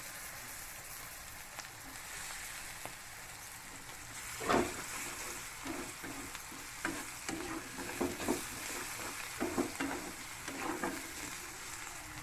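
Onion, ginger and curry-leaf masala with chilli and turmeric powder frying in oil in a kadai, sizzling steadily. About four and a half seconds in a loud knock, then a run of spoon scrapes and clinks against the pan as it is stirred.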